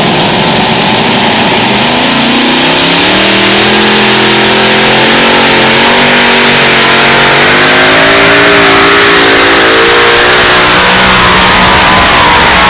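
Four-engine modified pulling tractor at full power on a pull, very loud, its engine pitch climbing about two seconds in and then wavering up and down as the engines labour against the sled.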